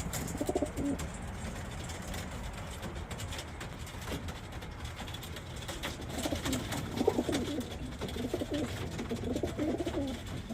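Racing pigeons cooing in the loft, several birds at once, in bouts about half a second in, again around six to seven seconds in, and near the end.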